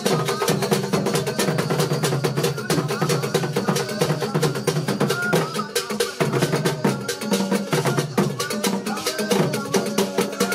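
Drumming: many fast, dense drum strokes in a steady, driving rhythm.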